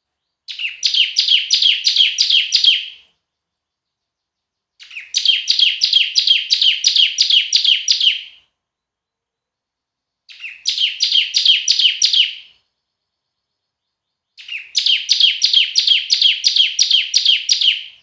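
Bar-winged prinia (ciblek) singing loudly: four bursts of song, each a rapid run of sharp repeated notes, about three to four a second, lasting two to three seconds, with short pauses between bursts.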